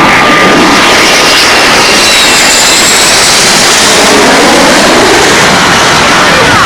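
Loud jet engine noise from a fighter jet flying past, a steady rushing with faint whining tones that slowly bend in pitch.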